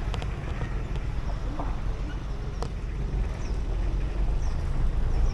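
Tour shuttle vehicle running as it drives, a steady low rumble with road noise.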